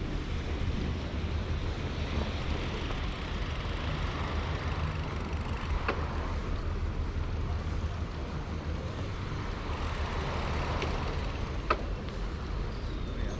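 Steady low rumble of wind and rolling noise while riding a bicycle, with two short clicks, one about halfway through and one near the end.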